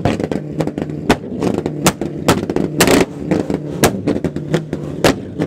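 A Corvette's V8 running at high, steady revs, with many sharp cracks scattered irregularly throughout.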